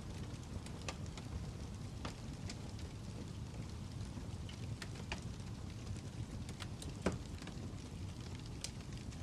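Fire crackling: scattered sharp pops over a steady low rumble, the loudest pop about seven seconds in.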